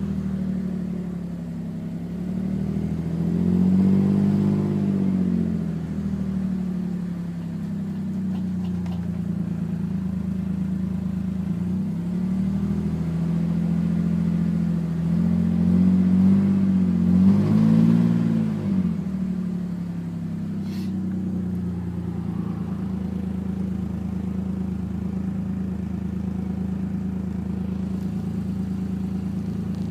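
Nissan Skyline R33's non-turbo straight-six engine idling, revved up and back down twice, a few seconds in and about halfway through, then left idling. The owner reports that it runs rough and misfires until it has warmed up.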